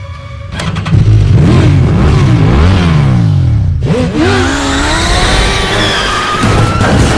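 Car engine revving hard, its pitch climbing and dropping several times through gear changes, then tyres squealing with a wavering pitch from about four seconds in.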